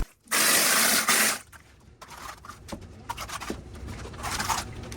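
A cement sprayer blasts mortar onto a stone basement wall in a loud hiss lasting about a second, starting just after the opening. Quieter, intermittent scraping and rubbing sounds follow.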